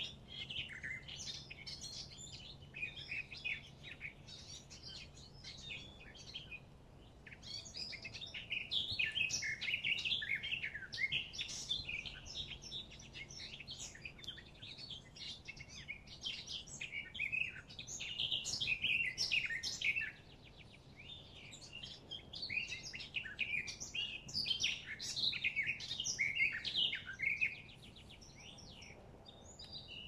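Songbirds singing: many overlapping high chirps and trills in busy phrases, broken by a few short lulls.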